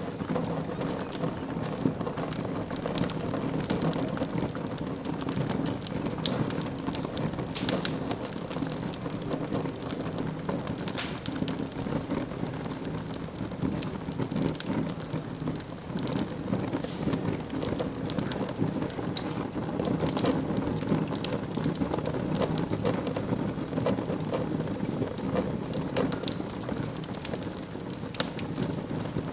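Wood fire burning in a fireplace: a steady low rush with constant fine crackling and a few louder sharp pops.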